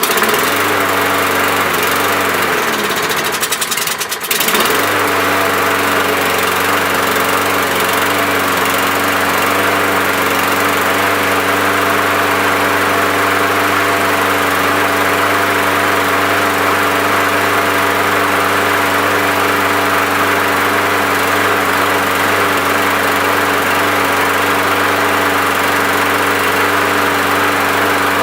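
Toro Recycler push mower's 6.75 hp Briggs & Stratton engine running while it is being run out of fuel. About two seconds in its speed sags, and it picks back up about four and a half seconds in, then holds a steady speed.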